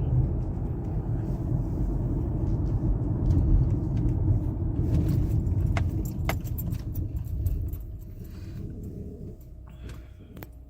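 Low rumble of engine and tyres heard from inside a moving car, with a few sharp clicks and rattles around the middle. The rumble drops off about eight seconds in.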